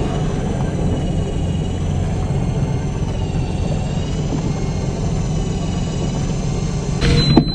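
Boat engine running with a steady low drone. A short burst of noise with a brief high tone cuts in near the end.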